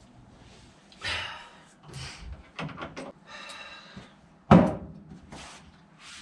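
Rummaging knocks and rustles while searching for a dropped nut, then one loud slam-like thump about four and a half seconds in.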